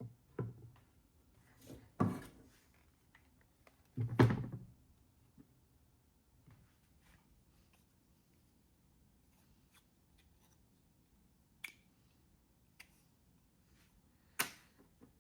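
A few scattered knocks and rubbing sounds, as of objects being handled, the loudest about four seconds in, with short sharp clicks later and quiet stretches between.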